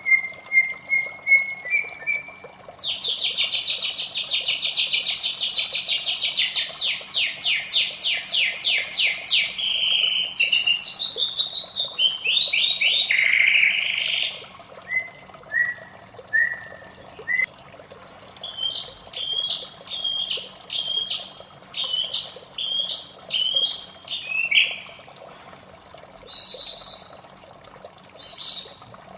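White-rumped shama singing a varied song: a run of short clear whistles, a long fast rattling trill from about 3 to 10 seconds in, then assorted phrases and a series of short repeated notes. A steady hiss of running water lies underneath.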